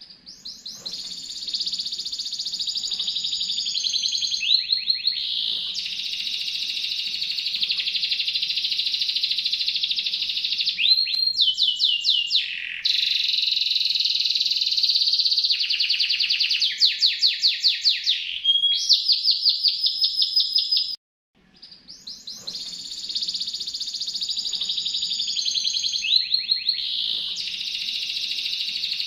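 Songbird singing long, fast, high trills and rolling rattles with hardly a pause. It cuts off suddenly about two-thirds of the way through, then the same phrases start again: a looped masteran recording used to tutor caged songbirds.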